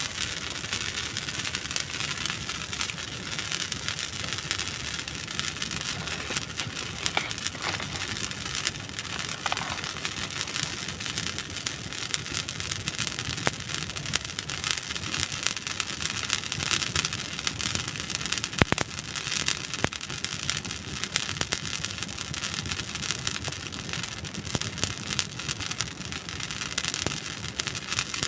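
Dry wood burning in a campfire, crackling and popping: a dense, steady run of small snaps over a soft hiss, with one sharper pop about two-thirds of the way through.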